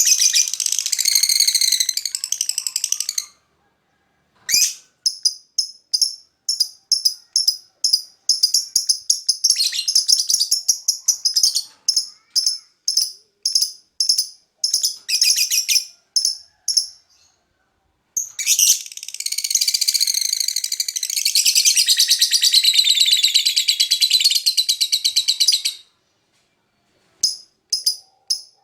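Lovebird song: two long runs of rapid, high-pitched chattering, broken up by series of short, sharp chirps repeated about twice a second.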